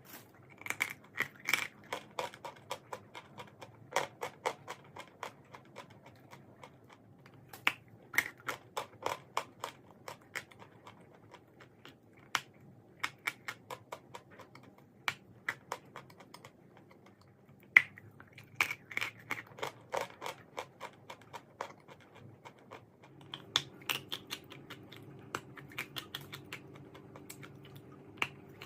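Crisp crunching of chalk being bitten and chewed close to the microphone: clusters of sharp cracks with short pauses between them. From about 23 seconds in, a low steady hum joins underneath.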